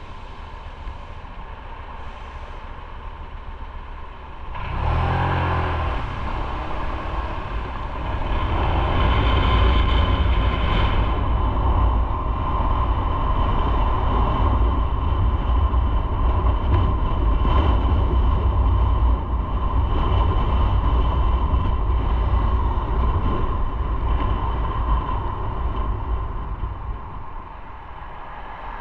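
Motorcycle riding on the road, engine running under steady wind and road noise. About five seconds in it gets suddenly louder as the engine picks up, and from about eight seconds on the low rush is louder and steady.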